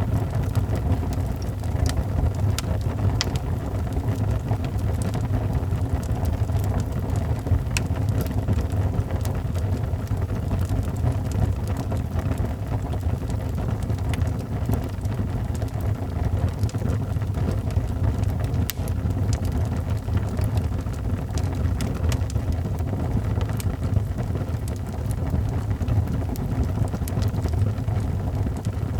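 Wood fire burning in a fireplace: a steady low rumble from the flames, with scattered small crackles and pops throughout.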